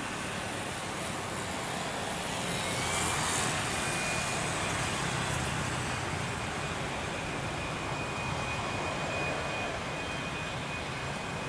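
Jet airliner engines running with steady noise and a thin high whine that rises slightly a couple of seconds in, then holds.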